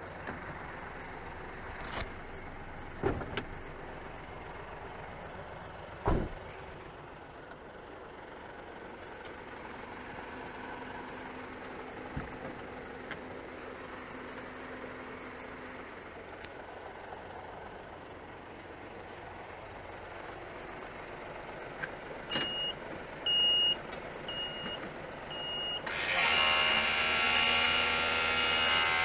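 Isuzu Giga truck's straight-six turbo diesel idling quietly and steadily, with a few sharp clicks in the first seconds. Near the end a high beeper sounds several times, then a much louder electric motor whine starts, as from the electric cab-tilt pump running.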